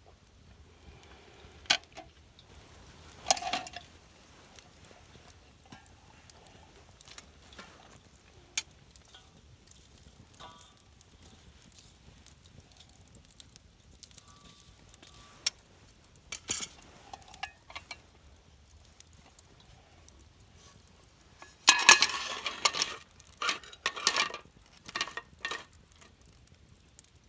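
Scattered clinks and knocks of camp cookware and utensils, with a short burst of clattering about three-quarters of the way through.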